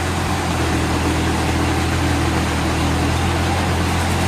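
Sawmill machinery running steadily: an engine's low hum under an even hiss.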